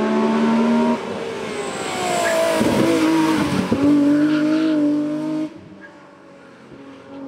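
Race car engine running hard, its pitch dipping and climbing again through gear changes about three seconds in, then holding steady. The sound drops away abruptly after about five and a half seconds.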